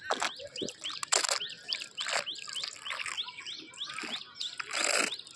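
A small bird chirping repeatedly, a rapid series of short rising chirps several a second. A few brief rushes of noise break in, the loudest about five seconds in.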